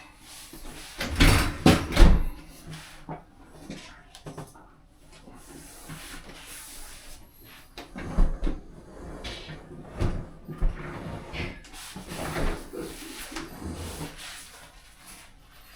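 Irregular knocks, clunks and scrapes of hands-on work fitting a dishwasher into its cabinet bay. The loudest bangs come about one to two seconds in, with more scattered through the rest.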